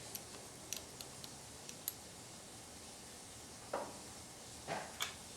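Small metal parts of a 4L60E transmission oil pump being handled: a string of light clicks and ticks, then two short scrapes and a final click as pieces are worked into place.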